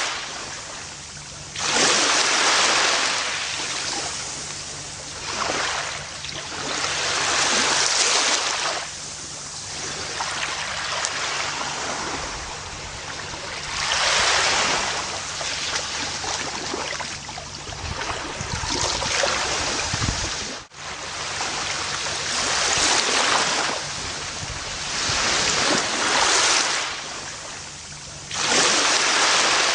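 Gentle ocean waves breaking and washing up a beach, each surge swelling and fading every four to six seconds. There is a brief drop-out about two-thirds of the way through.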